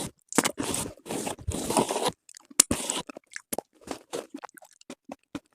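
Slate pieces being crunched: two long crunches in the first three seconds, then scattered small crackles and clicks.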